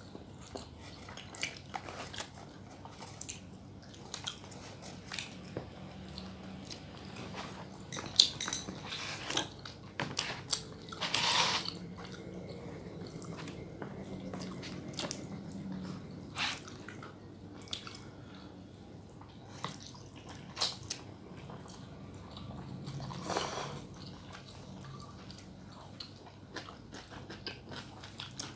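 A person eating close to the microphone: chewing and biting, with many short crunchy clicks and a few longer, louder bursts of noisy eating sound.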